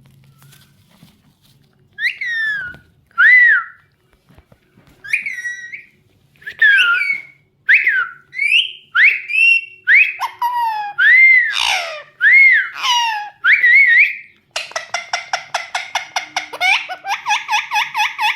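Pet rose-ringed parakeet calling: a string of loud, separate screeching whistles, each bending up and then down. In the last few seconds these give way to a rapid chattering run of short repeated notes.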